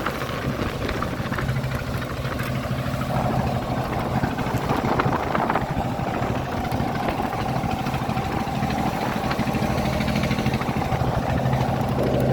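Fishing boat's engine running steadily, with a higher steady tone coming in about three seconds in.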